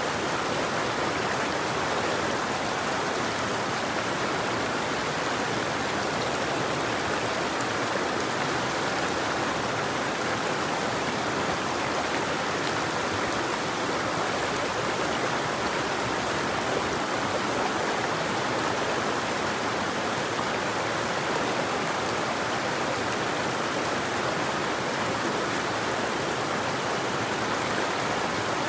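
River water flowing, a steady even noise without changes or birdsong.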